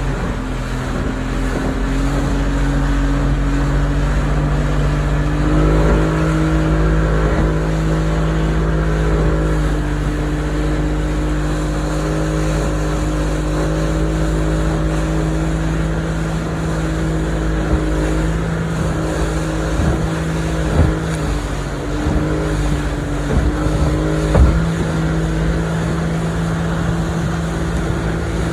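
Motorboat engine running steadily under way, speeding up in steps in the first few seconds and then holding its pitch. A few short thumps come in the second half.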